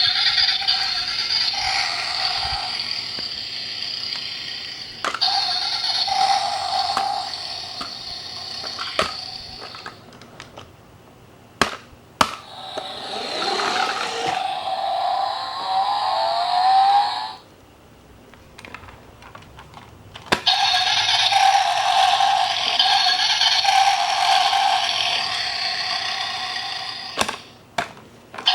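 Toy sports cars' built-in sound units playing recorded engine and exhaust sounds through a small speaker, thin with no bass, in three long bursts set off by sharp clicks. The middle burst has a rising rev.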